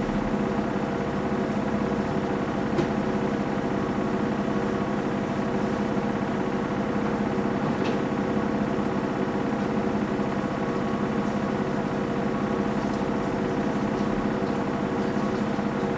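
Samsung Eco Bubble washing machine running steadily mid-cycle, a constant motor hum with a steady whine. A couple of faint clicks sound over it, about three and eight seconds in.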